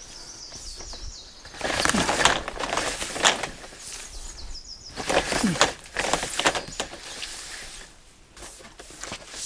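A small bird sings short, repeated high phrases, and twice a louder stretch of scuffing, crackling noise lasting a second or two covers it.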